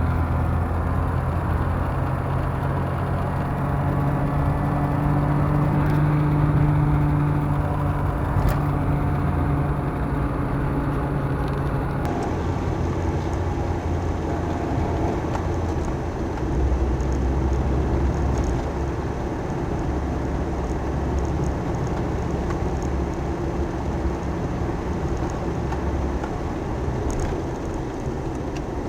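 An engine or motor running steadily with a low hum, its pitch shifting slightly about twelve and sixteen seconds in.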